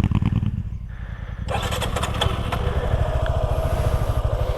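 Motorcycle engine running, easing off about a second in and picking up again shortly after.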